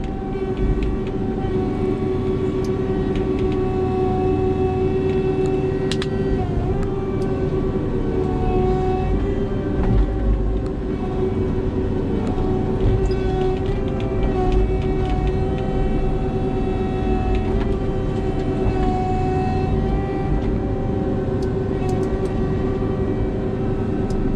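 Skidder's diesel engine and drivetrain running steadily under load, a constant whine over a low rumble, with a few brief clanks and knocks from the machine.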